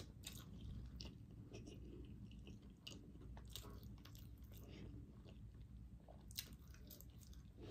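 Faint chewing and mouth sounds of a person eating French fries, with scattered soft clicks.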